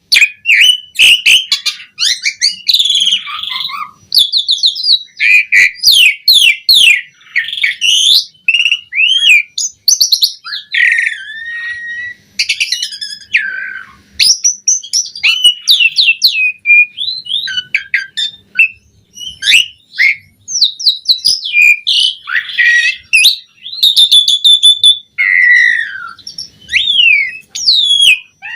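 Asian pied starling (jalak suren) singing a long, varied song: fast chattering trills, clear whistles, sweeping slurred notes and harsher squawky phrases, run together with only brief pauses.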